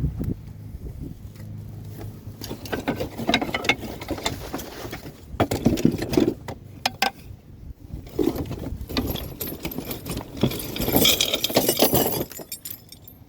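Loose pieces of scrap metal being handled and dropped, clattering and jingling in three bursts separated by short pauses.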